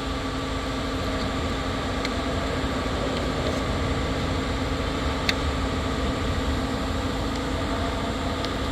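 Steady mechanical hum with a low rumble and a few steady tones, with a few light clicks, the sharpest about five seconds in.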